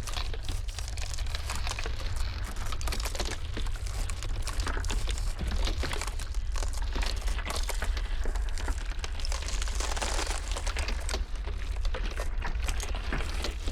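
Ice cracking and crackling in a dense, irregular stream of small snaps and pops, over a steady low wind rumble.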